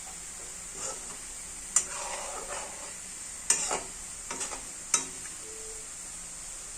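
Shredded potato sizzling as it deep-fries in oil in a kadai, stirred with a metal skimmer that scrapes and clinks sharply against the pan three times, about a second and a half apart.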